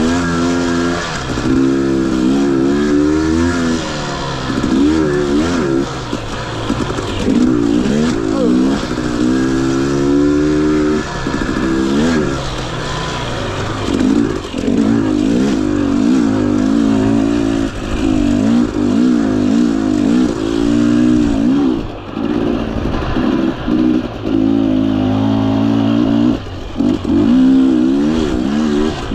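Husqvarna TE 250i two-stroke dirt bike engine revving up and down as it is ridden, the pitch rising and falling every second or two with short drops when the throttle is rolled off.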